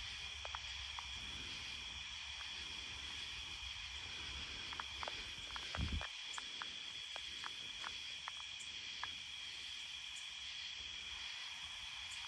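Steady night insect chorus, crickets or similar, a high continuous trill, with scattered faint clicks and one brief low thump about six seconds in.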